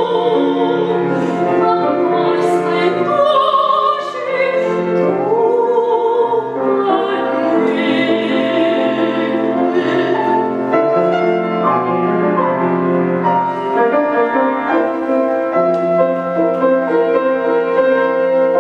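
Soprano singing a classical art song in operatic style with wide vibrato, accompanied by a grand piano. About two-thirds of the way through the voice stops and the piano plays on alone.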